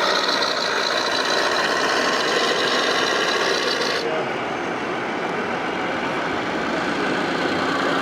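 Radio-controlled scale construction machines working in sand and gravel: steady mechanical running with a gritty scraping and rasping. About four seconds in, the sound changes abruptly and loses its high hiss.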